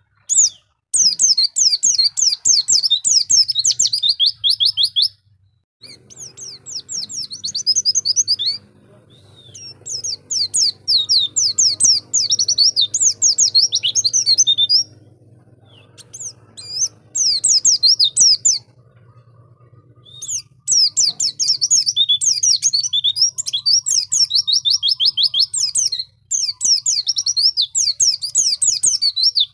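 White-eye (pleci) singing in fast, high chattering trills, in bursts several seconds long broken by short pauses. A faint low hum runs underneath from about six seconds in.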